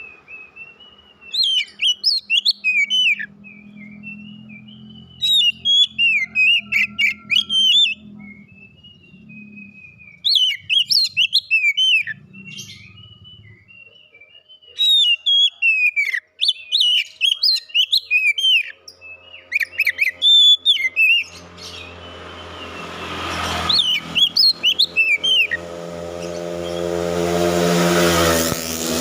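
Oriental magpie-robin (kacer) singing loud bursts of rapid, varied whistled phrases, a couple of seconds each, with short pauses between. A low droning hum builds under the song in the last several seconds.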